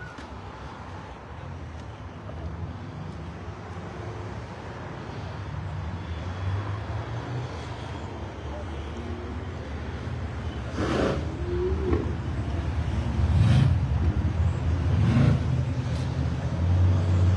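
A car engine running close by, a steady low rumble that grows louder in the second half, with a few brief surges.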